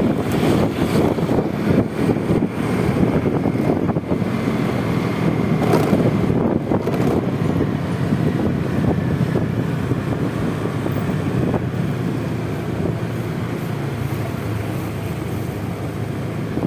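Wind rushing over the microphone of a Honda Vario 125 scooter in motion, with the scooter's engine and the surrounding traffic running underneath. The noise eases a little after about ten seconds.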